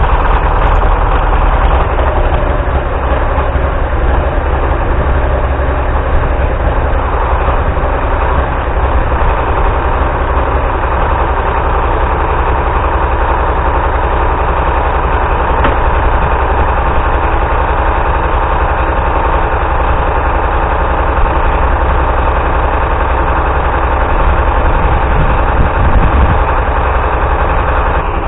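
Galion 503 grader's UD-236 diesel engine running at a steady idle, evenly and without missing, having cleared up after a hard cold start.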